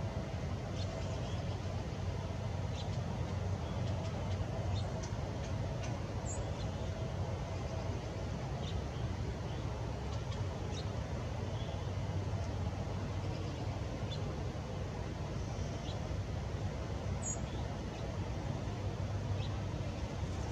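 Steady low outdoor rumble with faint, scattered short bird chirps.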